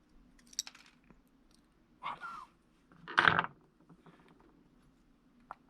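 Small parts and tools being handled on a work surface: a few separate short clicks and clinks, the loudest about three seconds in.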